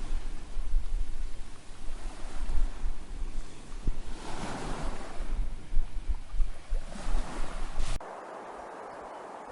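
Ocean surf washing onto a beach, with wind buffeting the microphone in a low, gusty rumble; the waves swell twice, about four and seven seconds in. About eight seconds in the sound cuts off abruptly to a quieter, steady hiss.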